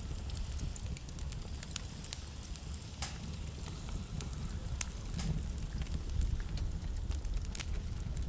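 Wood fire burning in a fireplace: logs crackling and popping in irregular sharp snaps, with a low steady rumble of the flames underneath.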